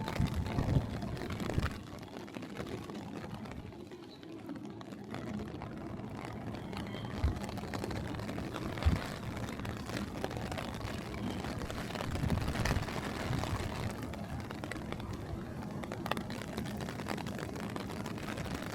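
City street ambience: steady traffic noise with faint voices mixed in, and a couple of sharp knocks about seven and nine seconds in.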